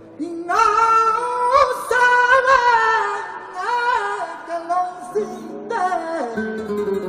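Male flamenco singer's voice singing a fandango line, with long, wavering melismatic ornaments, over acoustic flamenco guitar that is heard alone at the start and again as the voice falls away near the end.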